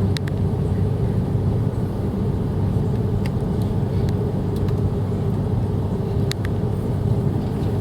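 Steady low rumble of an Airbus A330-300 airliner heard from inside the passenger cabin, with a held engine tone over it and a few short clicks.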